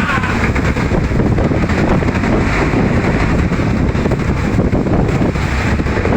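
Heavy wind buffeting the microphone over the steady running noise of a banka outrigger boat and waves in rough water.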